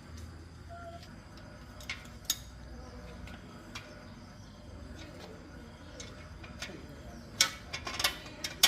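Sharp metallic clicks and knocks from hand work on a bicycle: a few scattered ones, then a quick cluster of louder clicks near the end.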